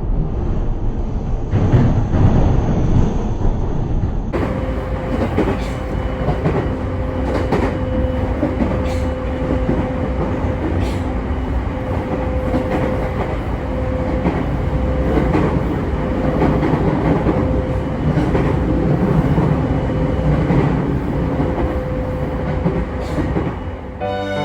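JR Sobu Line electric train running over rail joints, heard from trackside: a heavy rolling rumble broken by sharp wheel clacks at each joint, with a steady tone running underneath.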